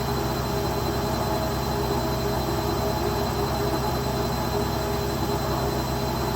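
Indesit Ecosense washing machine's drum spinning at speed in its spin cycle: a steady mechanical hum with a constant high whine and no change in speed.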